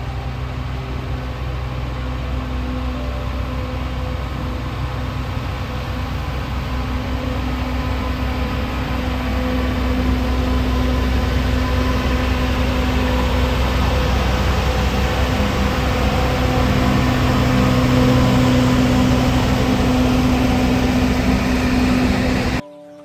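Alishan Forest Railway train's engine running steadily with a low hum, slowly growing louder, then cut off abruptly near the end.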